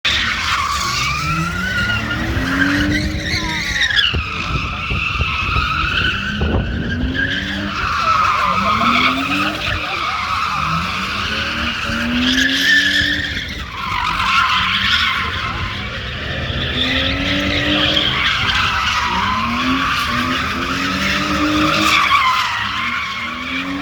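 Car spinning its tyres in a long, wavering squeal, while the engine's revs climb and fall back again every few seconds.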